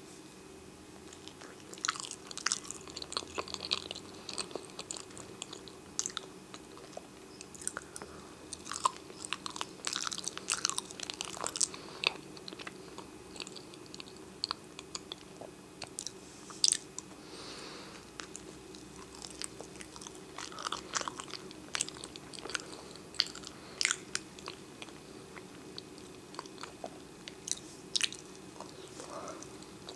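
Close-miked chewing and biting of soft banana: irregular wet mouth clicks and smacks, some louder than others, over a faint steady low hum.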